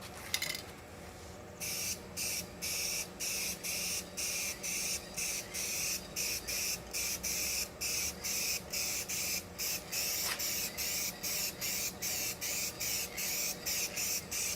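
Aerosol spray can of paint hissing in rapid short bursts, about three a second, starting about two seconds in: light dusting passes of a blending color coat, not a heavy coverage coat.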